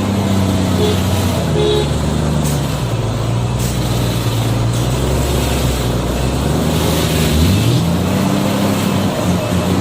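Heavy truck's diesel engine running. Its pitch drops after about a second, then climbs again about seven and a half seconds in as the engine revs up. Two short beeps sound near the start.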